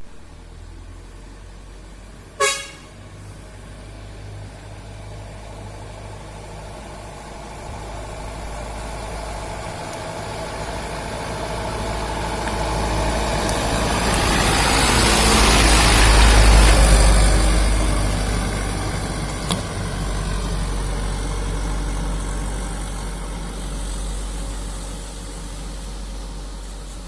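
Mitsubishi Canter light truck: one short horn toot about two seconds in, then engine and road noise that build to a loud peak past the middle and die away again, as the truck passes close by.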